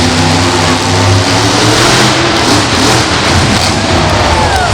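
Monster truck engine running loudly, its pitch steady through the first couple of seconds, over a constant wash of noise.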